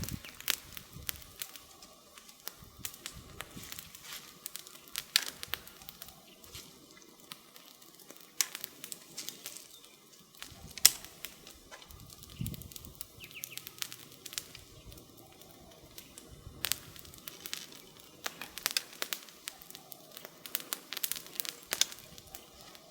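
Wood campfire crackling: irregular sharp pops and snaps, with one louder pop about eleven seconds in and a brief low rumble just after it.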